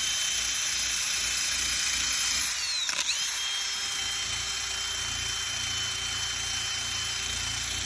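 Hand drill with a sanding attachment running steadily, sanding old paint off a car hood, with a high-pitched whine over a rasping hiss. The whine dips in pitch briefly about three seconds in, then holds steady.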